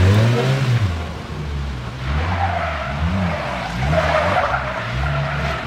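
Car engine revving up and down repeatedly while the tyres skid and squeal on pavement, the squeal strongest from about two seconds in.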